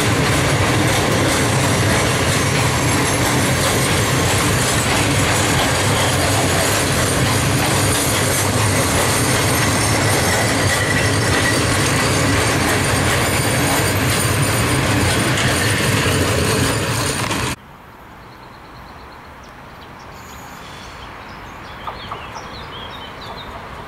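A train running past at close range, a steady loud rattle and rumble of wheels on rail joints. It cuts off suddenly about seventeen seconds in, leaving a much quieter background with a few faint high chirps.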